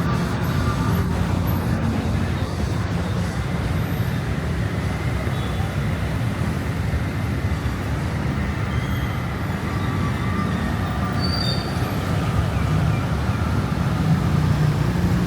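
Steady traffic noise of a busy city road: engines running and tyres on the road, with a low rumble throughout.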